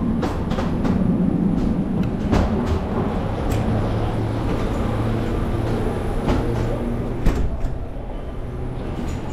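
Steady low rumble of a vehicle in motion, with scattered clicks, knocks and rattles, one sharper knock about seven seconds in.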